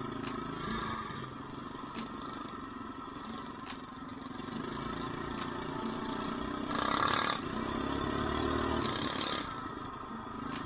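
Small single-cylinder mini bike engine running while riding on a trail, getting louder from about halfway through and easing off near the end.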